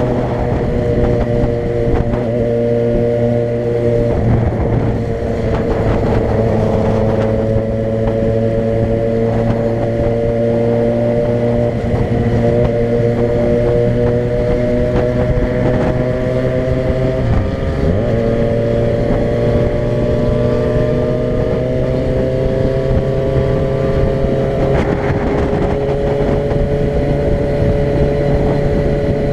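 A vehicle engine running steadily under way, with road noise. Its pitch rises slowly, dips briefly about seventeen seconds in, then climbs again.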